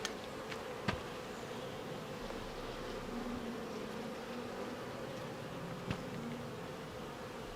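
Honey bees buzzing as a steady hum around an open hive while a frame is lifted out, with a couple of faint clicks.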